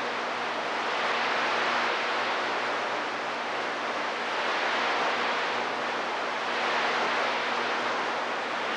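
Steady static hiss with a faint underlying hum from a CB radio receiver between transmissions.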